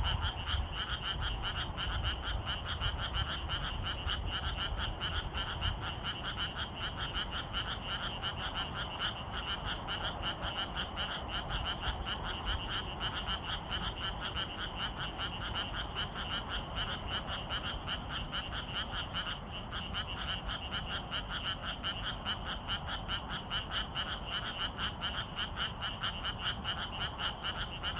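A dense chorus of many frogs calling at once: a steady, unbroken mass of rapid croaking pulses with a low rumble underneath.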